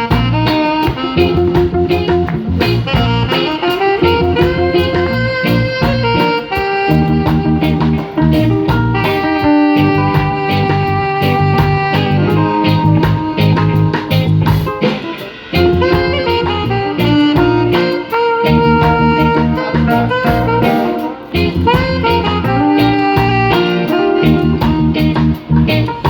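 Instrumental break of a live pop song: a band playing a melodic lead over a steady beat and bass, with no singing.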